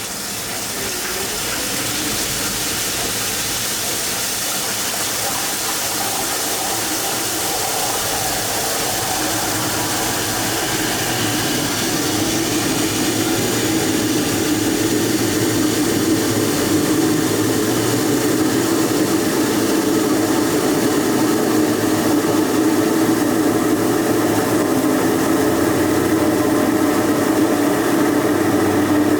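Water jet from a century-old microhydro turbine's spear valve hitting the runner: a steady rush of spray, with a hum that comes up about a third of the way in and grows stronger as the runner spins.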